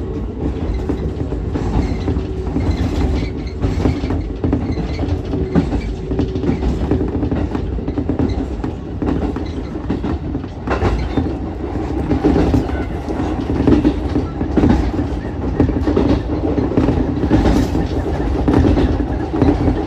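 Ichibata Electric Railway 7000-series electric railcar running along the line: a steady low rumble of wheels on rail with a low hum and occasional clacks from rail joints.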